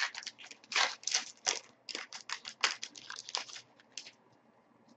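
Trading card pack's foil wrapper crinkling as it is torn open and the cards handled: a quick, irregular run of crackles that stops about four seconds in.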